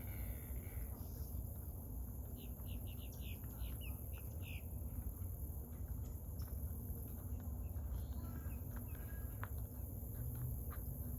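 A bird calling a quick run of about eight short, high notes a couple of seconds in, over a steady low rumble.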